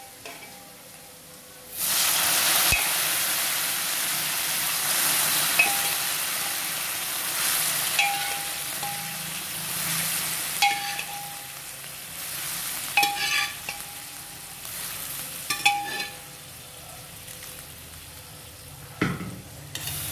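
Soaked chana dal and its water hit hot tempering oil in a kadhai and sizzle loudly and suddenly about two seconds in, the hiss slowly dying down as the oil cools. A metal ladle stirring the dal clinks with short rings against the pan several times, with a knock near the end.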